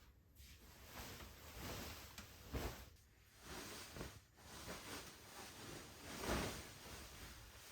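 Faint rustling and small handling noises in a quiet room, coming in soft swells every second or so with brief near-silent gaps.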